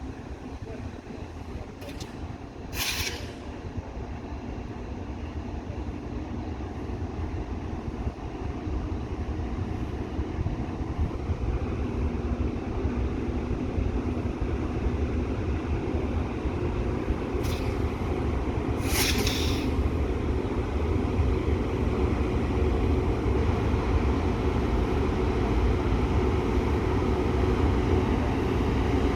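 Freight train hauled by an electric and a diesel locomotive pulling away, its low rumble growing steadily louder. Two short bursts of air hiss come about three seconds in and again about two-thirds of the way through.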